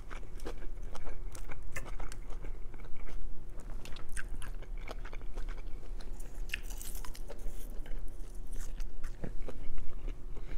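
Close-up chewing and mouth sounds of someone eating chow mein noodles and rice, with many irregular short clicks.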